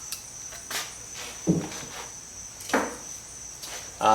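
A few separate sharp metal clinks and knocks of hand tools against a threaded brake-drum hub puller, over a steady high-pitched whine.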